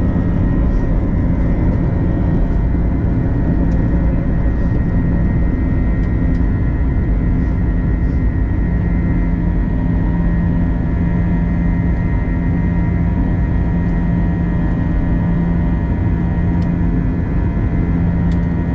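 Airbus A321 cabin under takeoff power: a steady jet engine roar with a constant hum of several pitches.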